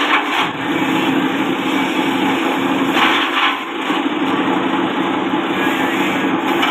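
Small grass and forage chopper driven by a 1/4 hp electric motor, running steadily on a test run with a constant whirring hum.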